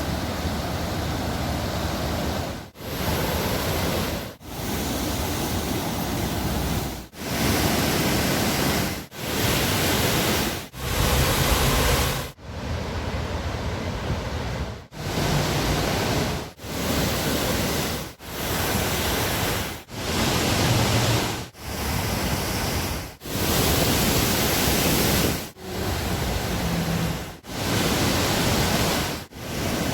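Man-made canal waterfall: a dense, even rush of falling water that drops out briefly about every two seconds.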